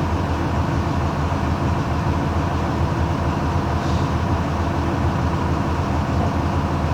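Mercedes-Benz OM-366LA 211 hp six-cylinder turbo diesel of a Busscar Urbanus S city bus on an OF-1721 chassis, running at a steady speed with an even engine drone.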